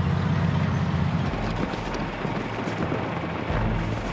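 Low rumble of heavy vehicle engines on the move, over a steady noisy wash; the engine tone shifts about a second in and again near the end.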